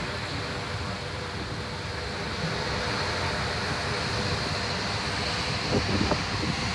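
Boat engine running steadily, under a constant wash of wind and sea.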